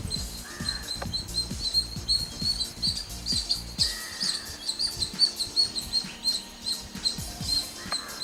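Birds chirping in rapid, repeated high notes, with a few lower calls about half a second in, around four seconds and near the end.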